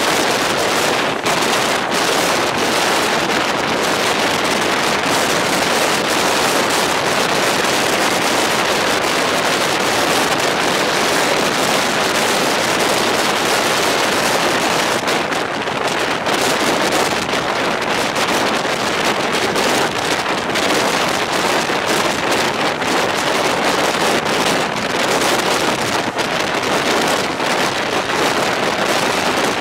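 Steady rush of wind and running noise from a moving passenger train, with wind buffeting the microphone.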